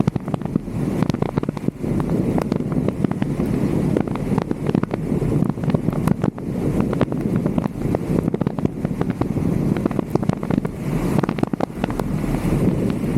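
Wind buffeting the microphone of a roof-mounted 360° camera, a steady low rumble, with many sharp ticks scattered through it.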